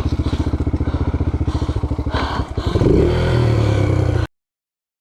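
Dirt bike engine running with a fast, even pulsing beat, then revving higher and louder about two and a half seconds in. It cuts off suddenly a little past four seconds.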